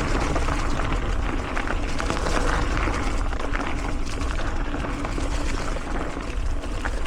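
Mountain bike rolling along a dirt singletrack: steady tyre and wind rumble with frequent small clicks and rattles from the bike over the rough trail.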